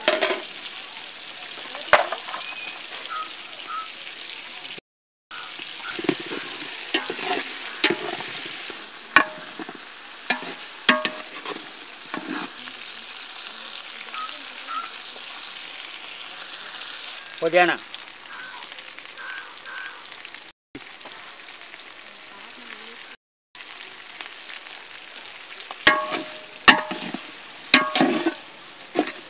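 Shallots, green chillies and spices sizzling in hot oil in a large aluminium pot, with a metal ladle knocking and scraping against the pot as it is stirred, the knocks coming most often near the end. The sound drops out completely for a moment a few times.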